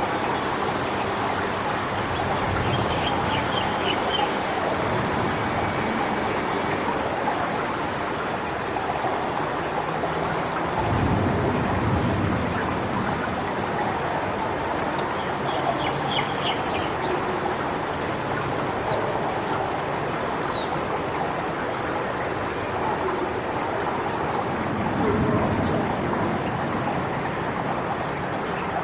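Strong wind rushing through coconut palm fronds: a steady rustling hiss that swells in gusts about eleven seconds in and again near the end, with low rumbles of wind buffeting the microphone.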